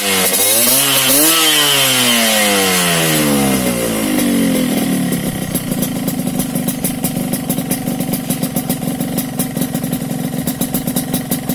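Yamaha RX-King's two-stroke single-cylinder engine running through a racing exhaust. It is revved once, rising in pitch for about a second and then falling back over the next few seconds. It then idles with a steady, pulsing beat.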